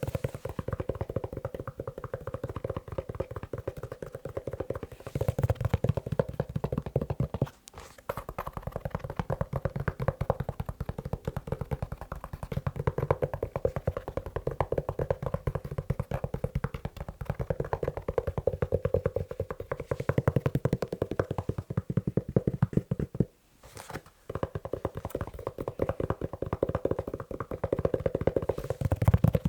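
Fast tapping on a leather shoe: a dense, rapid run of taps that breaks off briefly twice, about a quarter of the way in and again about four-fifths of the way through.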